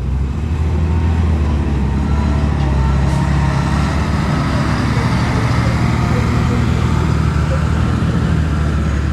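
Heavy construction-machine diesel engine running steadily at working revs, growing louder during the first second and then holding.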